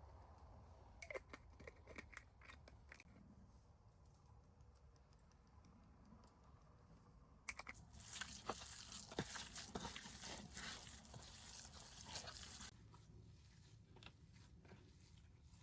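Faint handling sounds: a few light clicks, then about five seconds of rustling and tearing starting about halfway through and stopping suddenly, as of paper or plastic being torn or crumpled.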